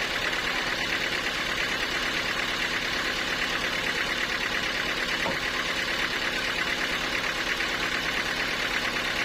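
A sawmill's engine-driven machinery running steadily, with a fast, even pulsing.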